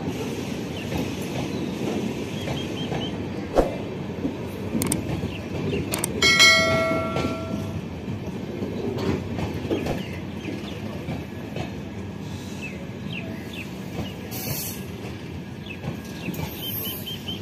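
Passenger coaches of an Indian Railways express rolling slowly past along the platform, wheels rumbling and clattering over the rail joints. A horn sounds once for about a second and a half about six seconds in, the loudest moment.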